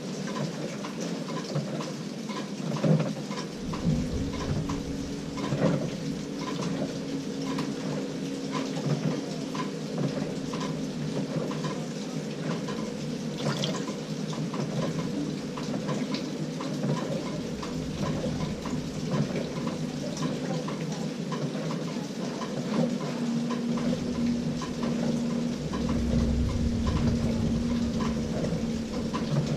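LG 18 kg top-load washing machine running its delicate cycle: water splashing and rushing in the drum, with the drive motor humming in stretches that start about four seconds in and again near the end.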